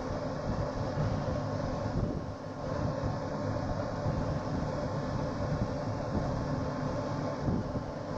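Steady low rumble of a moving vehicle, with a faint steady mechanical hum over it.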